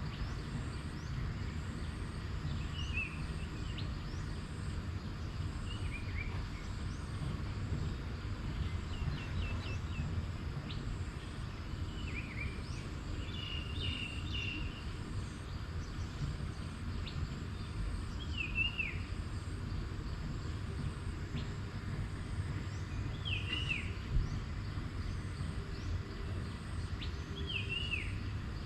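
Outdoor ambience with a steady low rumble, over which a bird gives short, downward-sliding chirps every few seconds, with a brief cluster of chirps about halfway through.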